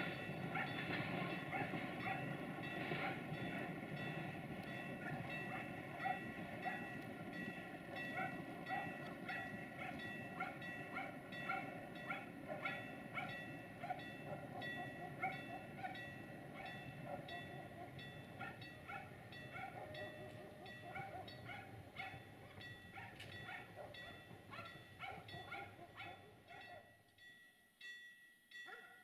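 Passenger train running away into the distance: a low rumble with steady whining tones and irregular clicking from the wheels. It fades gradually, then drops away about two seconds before the end.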